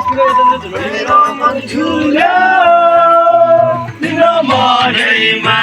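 Music with a man singing long, held notes that bend in pitch.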